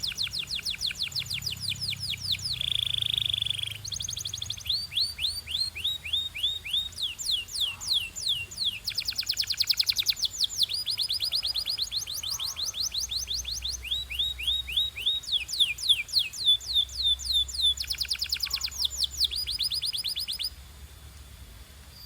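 Domestic canary singing a long song of rapid trills: runs of quick, repeated downward-sweeping notes that change to a new pattern every second or two, with a short buzzy roll near the start. The song stops shortly before the end.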